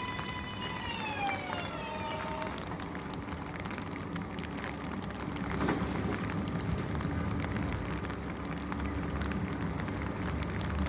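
Subway train's electric traction motors whining in a stack of steady tones that slide down in pitch over about two seconds and die away as the train slows. A low rumble follows, with a short burst of noise about halfway in.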